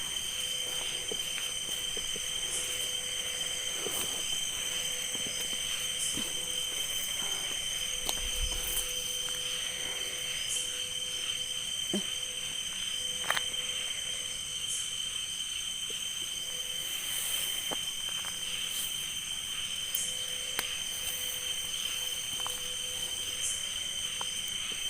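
Night insects, crickets among them, keep up a continuous high-pitched trilling chorus, several steady pitches layered together. Faint scattered clicks and ticks sound through it.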